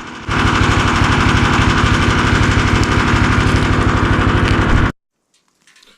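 A small engine running steadily with a rapid, even beat, which cuts off abruptly about five seconds in.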